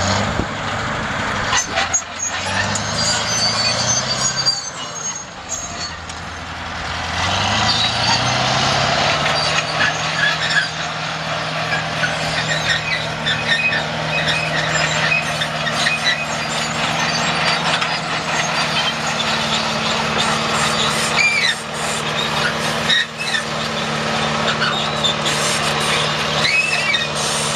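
Heavy construction machine's engine running, its pitch rising about a quarter of the way through and then holding steady, with high squeaks and clatter over it.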